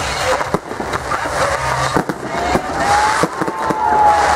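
Aerial fireworks shells bursting in quick succession, with sharp bangs and crackling. A whistle rising in pitch runs through the second half.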